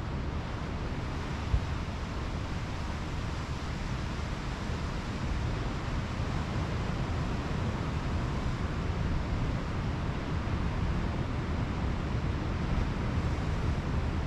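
Pacific Ocean surf breaking and washing up the beach as a steady wash of noise, with wind buffeting the microphone. One brief knock about one and a half seconds in.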